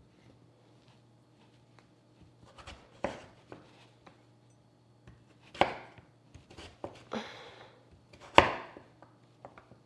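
Kitchen knife chopping on a cutting board: a few sharp, irregular knocks, three of them loud, with a short scrape near the end.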